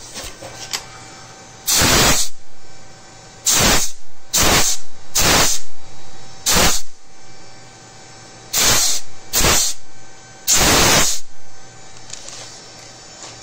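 Compressed air hissing in about eight short, sharp blasts, irregularly spaced, each well under a second long, as from a pneumatic valve or air line of the lathe's automatic chuck. A faint steady hum runs beneath.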